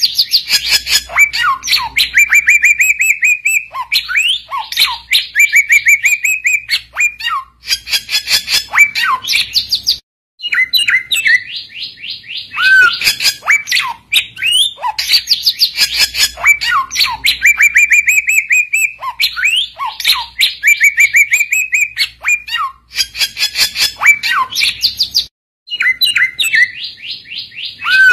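Samyong bird singing loudly: long runs of rapid, chattering whistled notes with rising slurs, breaking off for a moment about ten seconds in and again shortly before the end, as the same song phrase comes round again.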